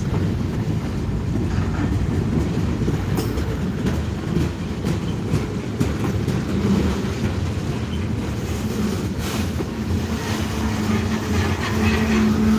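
Freight train passing on the rails: a steady noise of wheels and cars rolling, with a low steady hum coming in about six seconds in and again near the end.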